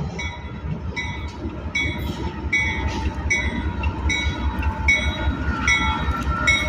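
Freight train's diesel locomotives running with a deep, steady rumble, and a bell ringing with one stroke about every second.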